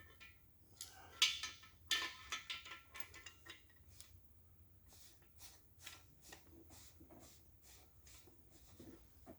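Steel cam bearing installer rod and fittings being handled in an engine block, metal clinking and scraping. There are two louder ringing clanks about one and two seconds in, then a run of lighter taps and clicks.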